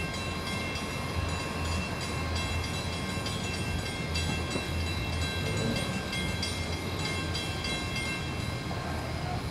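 Train out of sight: a steady low rumble with several steady high whining tones, over a fast, even high-pitched pulsing.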